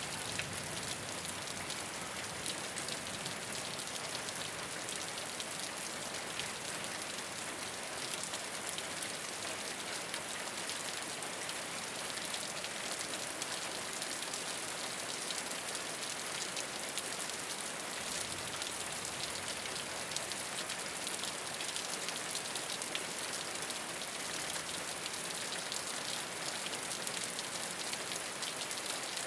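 Steady rain falling on a rooftop, a dense even patter of many drops with no change in strength.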